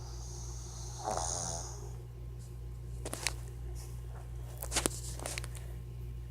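Sleeping dog snoring: one breathy, rasping snore about a second in, over a steady low hum. A few sharp clicks follow near the middle and toward the end.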